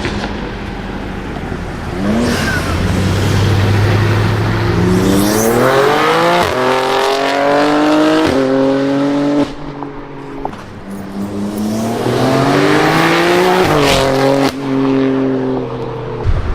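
BMW G80 M3's S58 twin-turbo inline-six, with catless downpipes and an equal-length valved exhaust, accelerating hard. Its pitch climbs through several quick upshifts, eases off briefly in the middle, then pulls again to another shift near the end.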